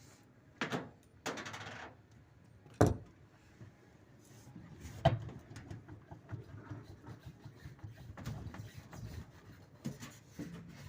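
Hand tools knocking and clattering against the washing machine's drive motor while a stuck fastener is worked loose: two sharp knocks about three and five seconds in, a short scrape before them, and lighter handling clatter after.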